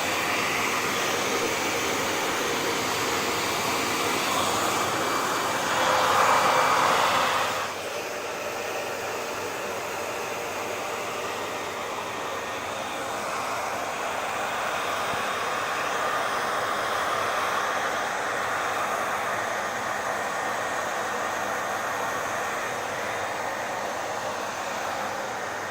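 Hair dryer blowing with a steady rushing noise. It swells louder about six seconds in, then drops suddenly to a quieter steady blow about a second and a half later.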